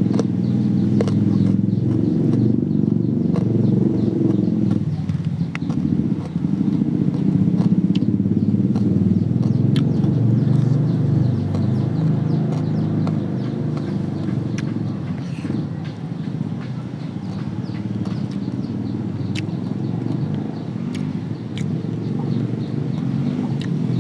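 A steady low engine drone, dipping slightly about five seconds in and easing a little in the second half, with scattered sharp clicks over it.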